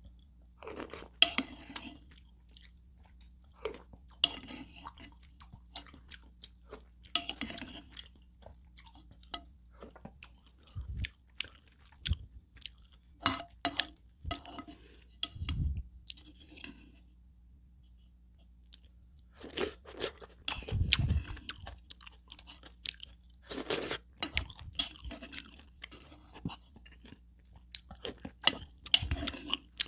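Close-miked eating sounds: chewing and sipping spoonfuls of ramyeon broth with rice from a wooden spoon, in irregular bursts with a short pause about halfway through.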